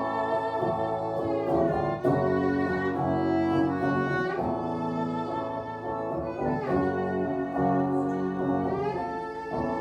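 A band playing an instrumental passage of a slow song without vocals: sustained chords that change about every two seconds.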